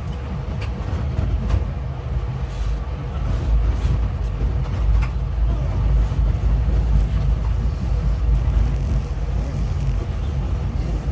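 Steady low rumble of an XPT passenger train running along the line, heard from inside the carriage, with a few light clicks.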